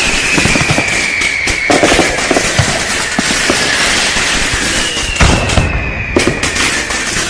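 Fireworks going off in a dense barrage of bangs and crackling, with a whistling tone that falls slowly in pitch near the start and again about five seconds in.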